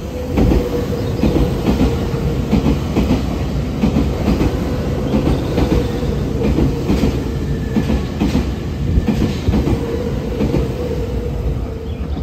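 Nankai stainless commuter electric train passing through the station at speed: its wheels clatter in a steady run of knocks over the rail joints, over a steady tone. It starts suddenly about half a second in and eases slightly near the end as the last car goes by.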